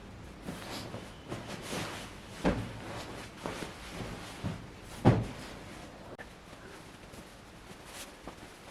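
A series of household knocks and clatters, like cupboard doors and objects being handled, about seven in the first five seconds. The loudest is about five seconds in, followed by a few fainter ticks.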